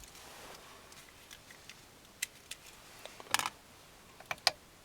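A few sharp, scattered plastic clicks of buttons being pressed on a newly installed FM/MP3 car stereo head unit, with a small cluster of clicks about three and a half seconds in.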